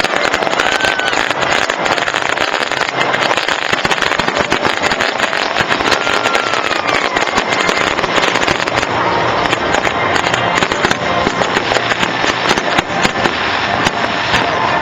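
Fireworks display: a dense, continuous crackle of many small bursts going off in rapid succession.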